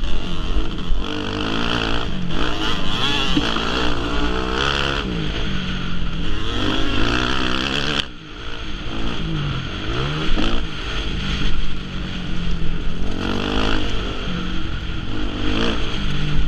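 Motocross bike engines running on a dirt track, the pitch repeatedly rising and falling as the throttle is opened and closed, with a short drop in level about halfway through.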